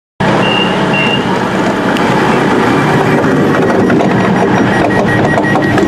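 Passenger train running, heard from inside the carriage: a loud, steady rumble that cuts in suddenly, with two short high beeps about half a second and a second in and a faint repeated beep near the end.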